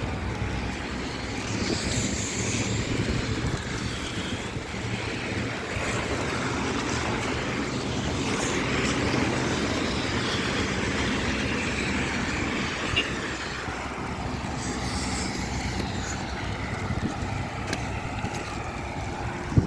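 Steady outdoor noise of wind on the microphone over a low rumble.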